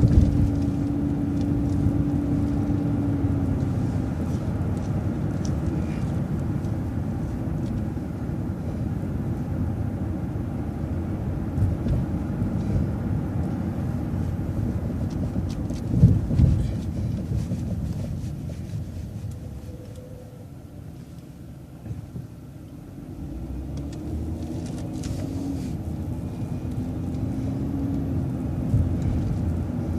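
City transit bus running: engine and road rumble, with a single thud about halfway through. There is a quieter spell around twenty seconds in, then the engine picks up again with a whine that rises in pitch.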